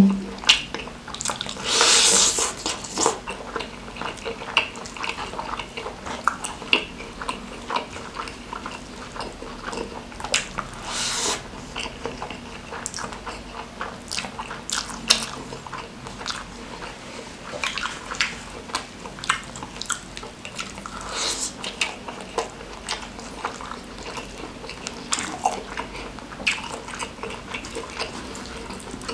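Close-miked chewing and biting of a person eating nasi padang with rendang and fried noodles by hand: a run of short wet mouth clicks and smacks, with a louder burst about two seconds in and another around eleven seconds.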